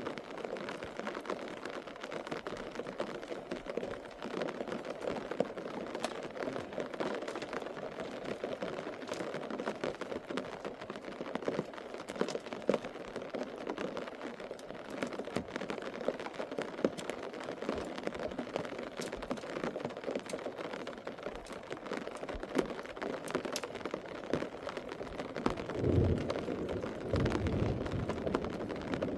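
Steady rain falling, with many small drop impacts pattering throughout. A low rumble comes in near the end.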